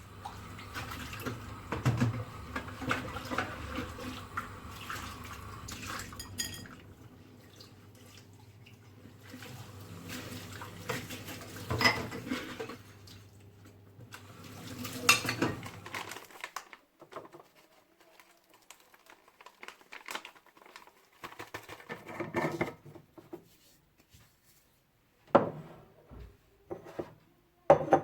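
Dishes and cutlery being handled in a kitchen: frequent clinks and clatters over a steady hum for the first half, then fewer, separate knocks and clinks.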